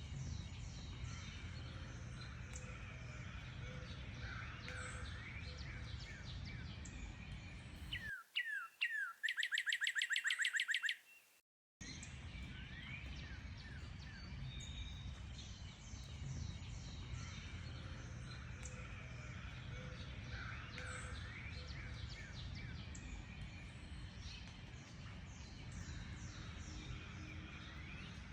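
Mixed birdsong from many small birds chirping and whistling over a low steady rumble. About eight seconds in the background cuts out and a single bird sings loudly on its own: a few down-slurred notes, then a fast trill of repeated notes. The song ends abruptly in a brief silence before the chorus resumes.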